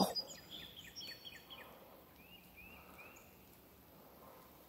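Faint bird calls: a quick run of about eight short, falling chirps, then three slurred notes that rise and fall, after a single sharp click at the very start.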